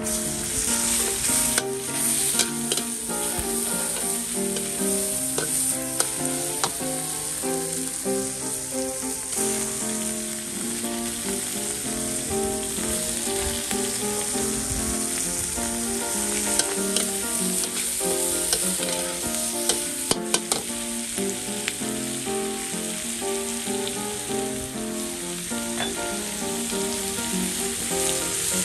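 Pork and Chinese kale stir-frying in hot oil in a steel wok: a steady, loud sizzle, with the metal ladle-spatula clinking and scraping against the wok now and then.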